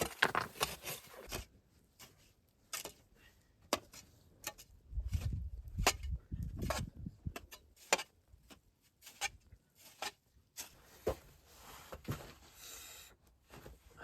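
Irregular sharp knocks and clicks of things being handled, with a low rumble for a couple of seconds in the middle.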